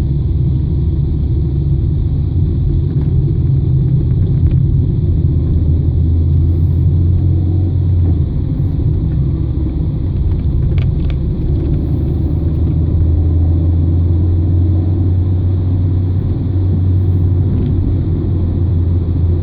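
Car engine droning steadily in fourth gear while engine-braking down a steep grade, heard from inside the cabin along with low road rumble.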